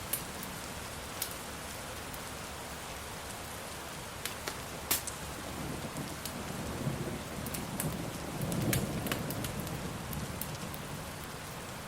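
Steady rain with the sharp pops of a crackling fire scattered through it. A low rumble of thunder swells in the second half and is loudest about three-quarters of the way in.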